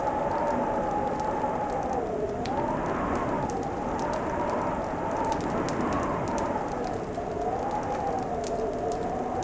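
Fireplace crackling with scattered small pops, over a steady moaning drone whose pitch slowly rises and falls.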